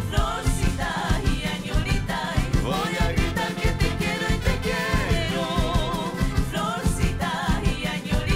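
A northern-style folk band playing a song, with a lead voice singing over a steady beat.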